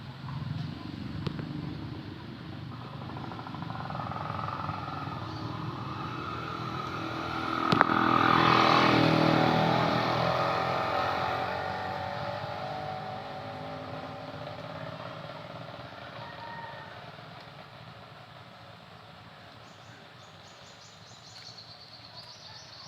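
A motor vehicle passes by: its engine grows louder, is loudest about eight seconds in, then fades away over the following several seconds. A single sharp click sounds just before it is loudest.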